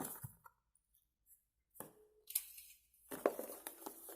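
Headphone packaging being handled: a few short, scattered rustles and clicks of cardboard and plastic.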